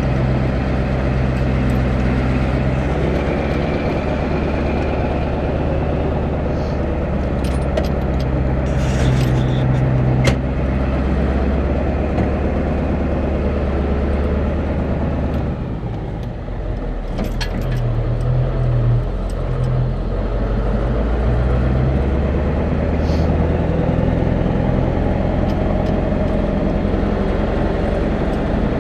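Vehicle engine and road noise heard while driving, a steady low drone that dips briefly about halfway through before picking up again, with a few light rattles and clicks.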